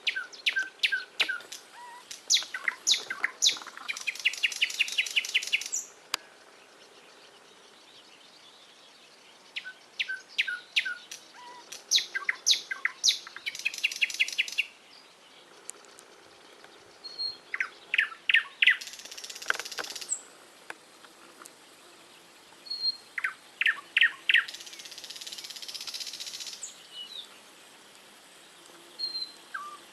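A songbird singing, one phrase about every six to ten seconds: each phrase is a few low notes, then a run of loud sweeping notes, then a fast trill about two seconds long. Faint single chirps come between the phrases.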